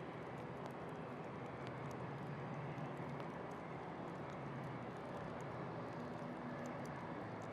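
Steady rain hiss with scattered small drip ticks, over a low steady hum.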